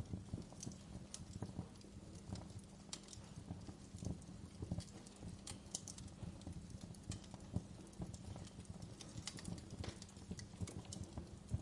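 Wood fire burning in a fireplace, crackling with many irregular small pops and snaps over a low steady rumble of the flames.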